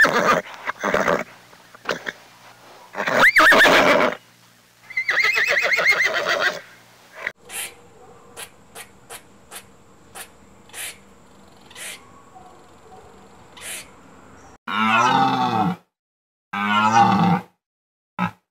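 Horses neighing in several loud calls, one a quavering whinny. Then a red squirrel's sharp clicks, about one every half second. Then two loud drawn-out calls from deer hinds.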